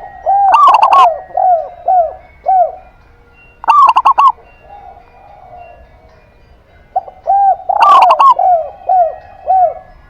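Doves cooing in three phrases, each a rapid run of short, arched cooing notes opening with a harsher burst: about a second in, around four seconds, and again from about seven seconds in.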